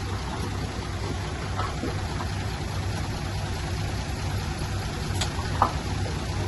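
Diesel engine of heavy earthmoving machinery running steadily, with a short sharp clank about five and a half seconds in.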